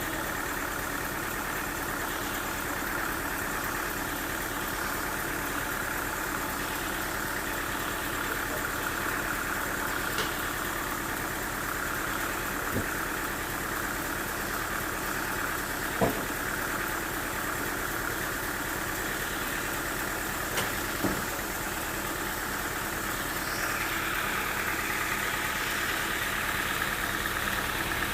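Sawmill machinery running steadily, with a few sharp knocks in the middle. The sound grows fuller and slightly louder about three-quarters of the way through.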